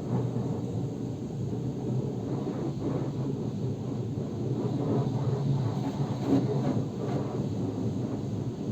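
Water spraying and drumming on a car's body during a wash: a steady low rumble with scattered spatters.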